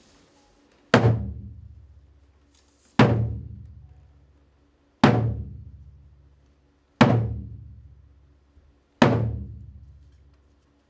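A large drum struck five times at a slow, even pace about two seconds apart, each deep beat ringing out and dying away before the next.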